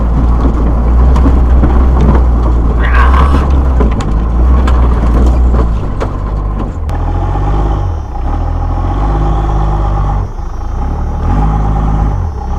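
Vehicle engine working hard as it pushes through deep snow, a loud low rumble under a rushing wash of noise. Past halfway the engine pitch rises and falls, dropping away briefly twice.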